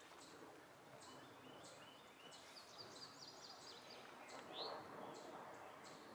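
Near silence with faint birds chirping now and then over a quiet rural background hiss.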